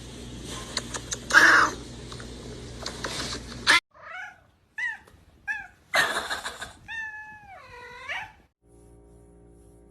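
A domestic cat meowing: three short meows, then one longer meow that wavers and falls in pitch. Before them come noisy scuffling sounds with a loud burst about a second and a half in. Near the end there is a faint steady hum.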